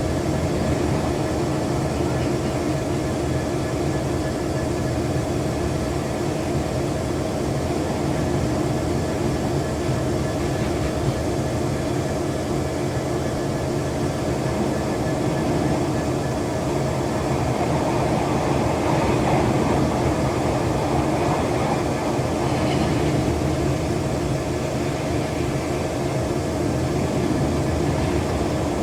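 Train running steadily on the rails: a continuous rumble with a steady hum under it.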